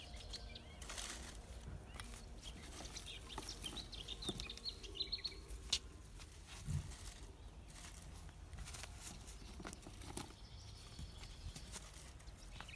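Dry sticks being laid onto a campfire pile: scattered light clacks and snaps of wood knocking together. A small bird chirps a few times about four seconds in.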